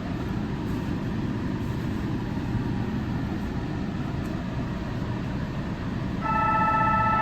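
Low steady rumble of an electric train standing at the platform. About six seconds in, a bright electronic station departure chime starts, several steady tones sounding together.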